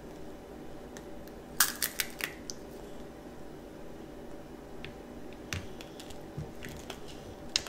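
Crunching as a candied strawberry's hard sugar coating is bitten and chewed: a quick run of sharp cracks about one and a half to two and a half seconds in, then a few scattered single crunches.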